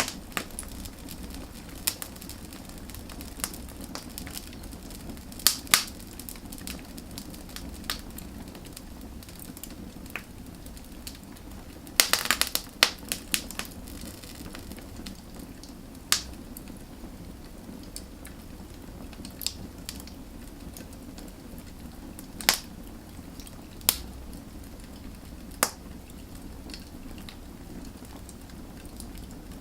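Wood fire burning, with a steady low rumble of flames and sharp crackles and pops from the burning logs, a quick cluster of them about twelve seconds in.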